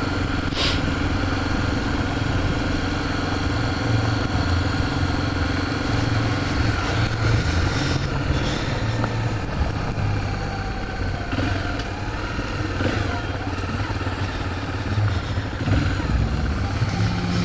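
Honda XRE 300's single-cylinder engine running steadily at low speed while being ridden, with a low hum and a steady tone that fades about six seconds in.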